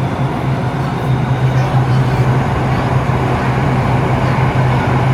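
Metro train running, heard from inside the passenger car: a steady rolling rumble with a low, even hum.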